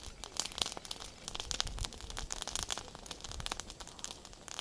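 Bonfire crackling: dense irregular snaps and rustles, with some low rumbling between them.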